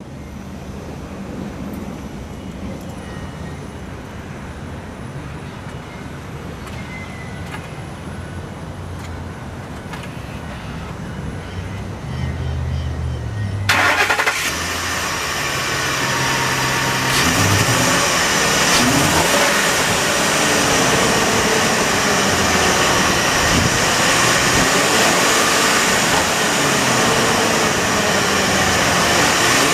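2008 Ford F-250 pickup engine: a low steady hum for roughly the first half, then a sudden loud onset about halfway through as the engine starts. It then runs with its revs rising and falling several times.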